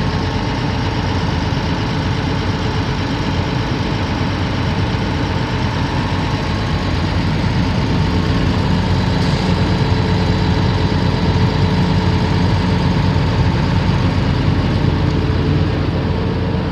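Komatsu PC450LC-8 excavator's six-cylinder diesel engine idling steadily, a little heavier from about halfway through.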